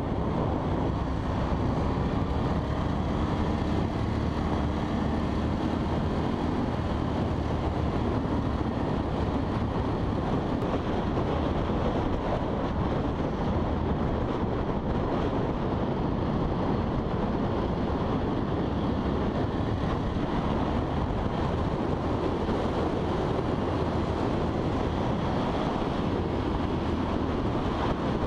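Steady wind rush over a helmet- or tank-mounted action camera's microphone on a moving motorcycle, with the bike's engine and road noise underneath.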